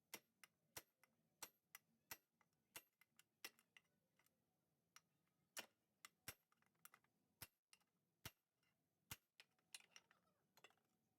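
Faint, sharp metal taps, about fourteen at an uneven pace with a short pause midway. An old bearing laid on top is being struck to drive a new gearbox main shaft bearing into its seat in the Yamaha RX135 engine case.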